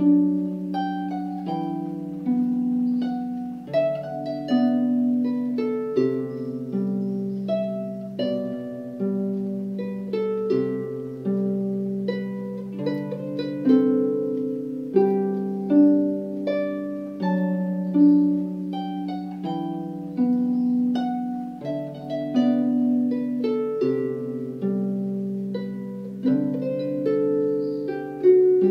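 Solo harp playing a slow, gentle melody: plucked notes ring out over sustained low bass notes.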